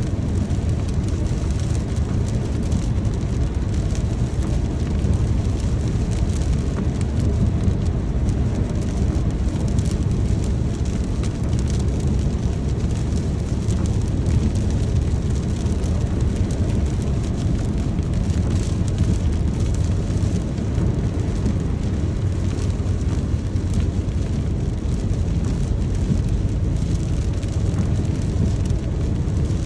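Steady rain with a constant low rumble beneath it and an even hiss of drops above.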